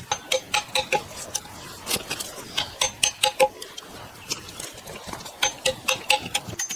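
An irregular run of sharp tool strikes, about three or four a second with short pauses. Each strike has a brief ring.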